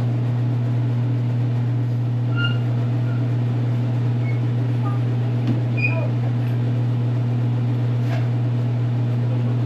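A steady low hum that runs without change, with a few faint short high chirps scattered through it.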